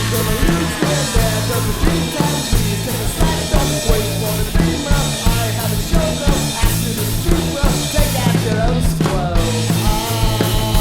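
Rock band playing an instrumental passage: a drum kit keeping a steady beat under a repeating bass line and a wavering lead melody.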